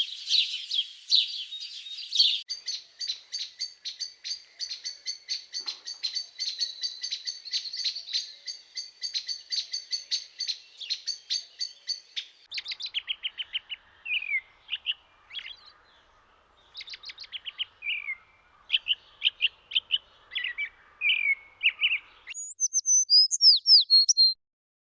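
Small birds chirping in a string of short clips: first a rapid, even run of repeated chirps, then looser twittering calls, then a few high whistled notes near the end.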